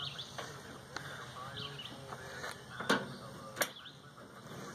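A few sharp clicks and knocks from handling the opened microwave's metal parts, with birds chirping in the background.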